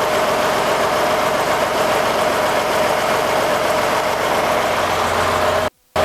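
Engine fitted with a set of Weber 40 IDAP carburetors running steadily on a test stand during a run test and tune. The sound cuts out briefly near the end and comes back with a stronger low hum.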